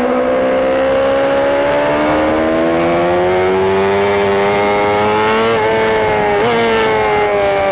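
Racing superbike engine heard on board at high revs, its pitch climbing steadily under throttle, with two brief hitches about five and a half and six and a half seconds in, then falling as the bike slows. Wind rush over the bike runs underneath.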